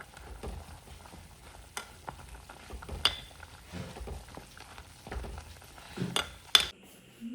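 Chicken frying in a pan and being stirred: a faint sizzle with several sharp clinks of the utensil against the pan.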